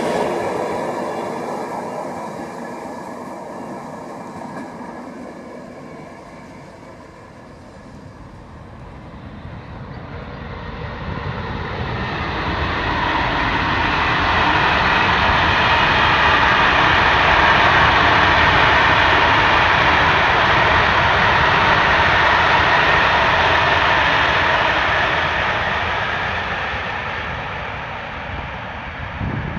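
Train running by on the line, with no horn: a passing train's noise dies away over the first several seconds. Then a train approaches, runs loudly past for about ten seconds in the middle, and fades away again near the end.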